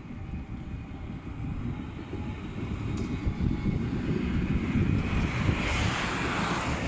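Tram running past, a low rumble that grows louder, with a hiss swelling in over the last two seconds.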